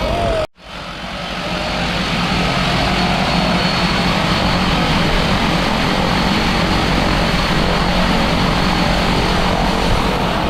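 Propeller aircraft engine droning steadily under heavy wind noise. The sound drops out briefly about half a second in, then comes back and holds steady.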